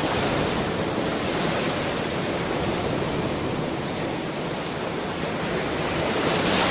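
Ocean surf washing in a steady hiss, swelling slightly near the end.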